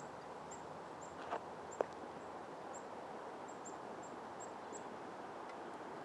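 Faint, very high, short bird chirps repeating irregularly about every half second over steady outdoor background noise. Two sharp taps stand out a little over a second in and just after.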